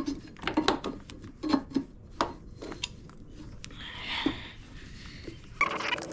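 Small metal parts and hand tools clicking and clinking as they are handled and fitted on a dirt bike, with a short scrape about four seconds in. Near the end the background switches abruptly to a steady hiss.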